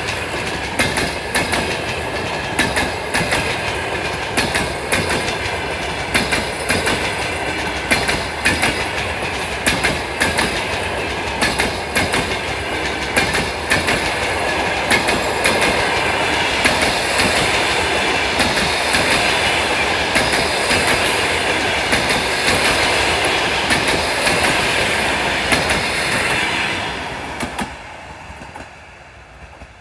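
Passenger coaches of a train rolling past, their wheels clattering rhythmically over the rail joints with a high steady ringing underneath. The clatter fades away near the end as the last coach passes and recedes.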